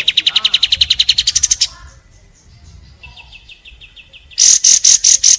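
Kapas tembak bird singing: a fast, even rapid-fire trill that rises in pitch as it ends, then a softer run of notes, then five loud, harsh notes in quick succession near the end.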